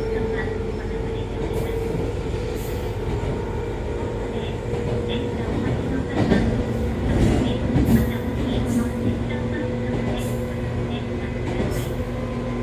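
Echizen Railway MC6101-series electric railcar running steadily, heard from inside the car: a steady hum from its MT54 DC traction motors and gearing over the rumble of the wheels. A few louder knocks over rail joints come in the middle. This car is known for an abnormal running noise.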